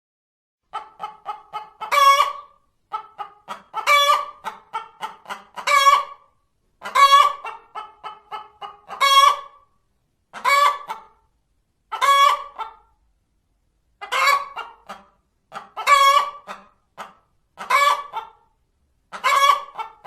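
Hen cackling: runs of quick clucks, each ending in a longer, louder squawk, repeated about eleven times at roughly two-second intervals. This is the egg song hens make after laying.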